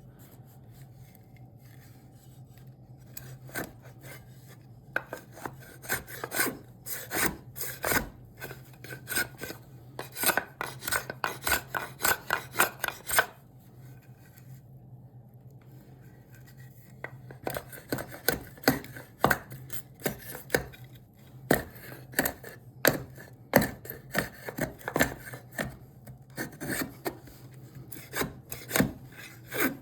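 Hand tool working cherry wood, shaping an axe handle with quick, repeated scraping strokes, a few a second. It pauses for a few seconds midway, then starts again.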